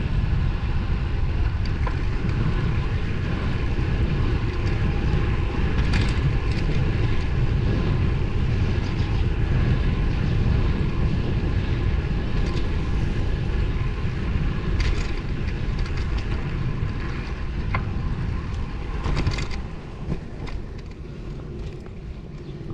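Road bike on the move: strong wind rush on the microphone with tyre and drivetrain noise underneath, and a few sharp clicks. It gets quieter near the end, as if the bike slows.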